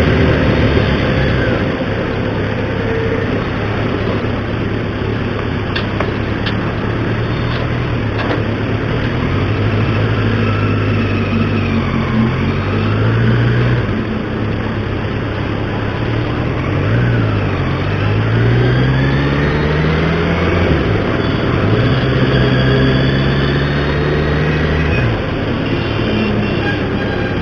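Motor vehicle engine running in road traffic, its note dipping and climbing several times, with one long climbing note cutting off near the end.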